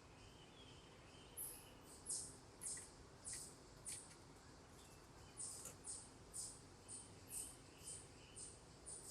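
A bird's short, high, sharp chip calls, repeated about twice a second, starting about a second and a half in and pausing briefly near the middle, over a faint outdoor background.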